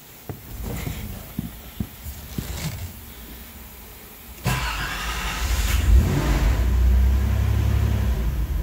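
1988 Nissan 300ZX Turbo's 3.0-litre V6 being started on starting fluid, heard from inside the cabin. A few scattered knocks come first, then the engine fires about four and a half seconds in and keeps running, louder and deeper from about a second later.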